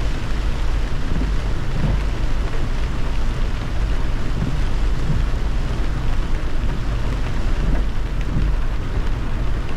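A car driving in heavy rain: a steady hiss of rain and wet-tyre spray over a constant deep road rumble.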